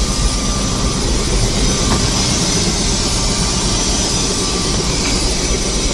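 Helicopter in flight: steady, loud engine and rotor noise.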